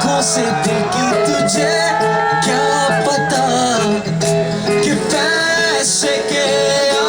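Live indie rock band playing, with guitar and singing over a full band.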